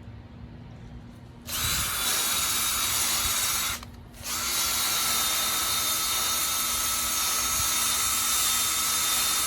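Electric welder running two weld beads on a metal ramp, a steady hissing crackle with a faint steady whine. It starts about a second and a half in, breaks off briefly near four seconds, then runs on.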